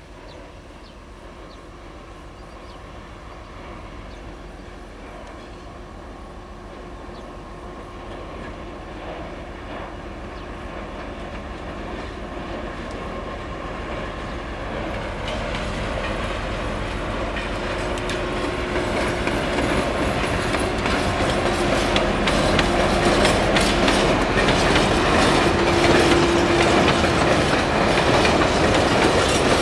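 M62 diesel locomotive 628 151 ('Szergej'), with its two-stroke V12 engine, approaching with a freight train and growing steadily louder. Wheels click over the rail joints as it draws near in the last third.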